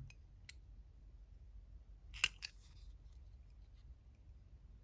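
A few light clicks and snips from paper-craft tools and cardstock being handled, with two sharp clicks close together about two seconds in; otherwise quiet.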